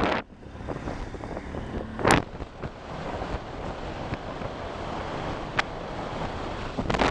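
Wind rushing over the microphone of a moving motorcycle, with road and engine noise beneath it. There is a sharp knock about two seconds in and a smaller click later.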